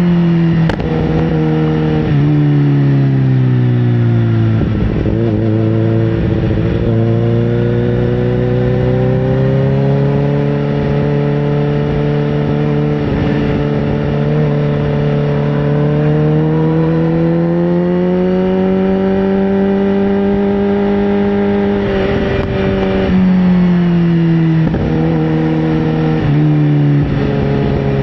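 Sportbike engine running continuously under way, its pitch gliding smoothly with the revs: it drops about four seconds in, holds fairly steady, climbs slowly in the middle, then falls again about three-quarters of the way through.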